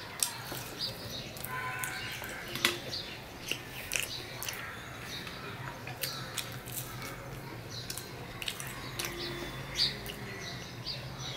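Close-up mouth sounds of chewing egg-fried bread: irregular wet smacks and clicks. A steady low hum runs underneath.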